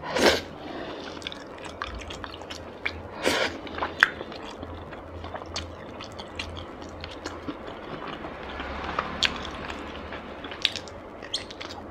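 Close-miked wet chewing of soft braised basa fish fat, with many small mouth clicks and smacks and two louder breathy bursts, near the start and about three seconds in.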